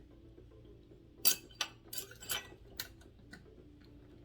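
A utensil clinking and scraping against a bowl several times in quick, uneven succession while sugar is stirred into a chicken-and-mayonnaise spread.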